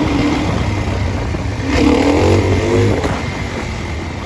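Dirt bike engine running, revving up hard under throttle a little under two seconds in and easing off again about a second later.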